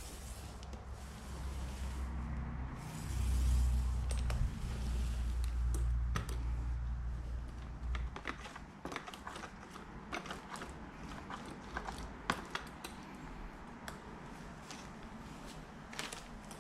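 Paint roller being worked over a cabinet door, with a deep rumble through the first half, then irregular light clicks and ticks.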